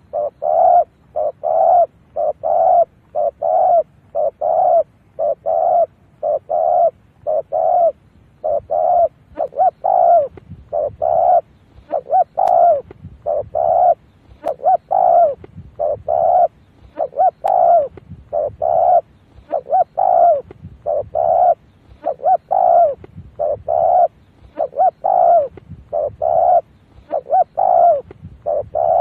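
Spotted dove cooing: a long run of short coos, about one or two a second and often in pairs, the decoy call used to lure wild doves to a trap.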